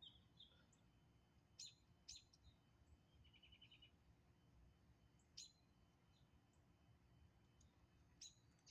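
Faint birdsong: sharp high chirps every second or two, with a quick trill of about seven short notes around three seconds in.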